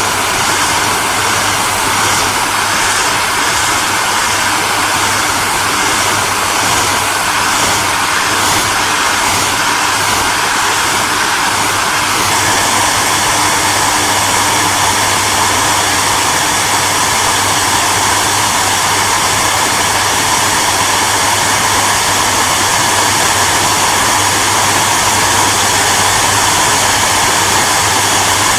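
Electric hair dryer running steadily: a continuous rush of blown air over a low motor hum, with a faint whine that drops slightly in pitch about twelve seconds in.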